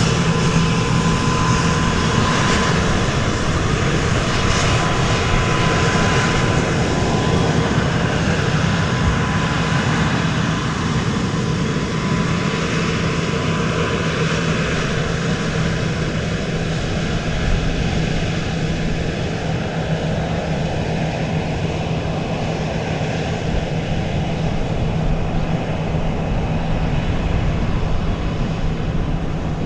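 Airplane engine noise running steadily at an airport, a continuous rush with a thin steady whine above it.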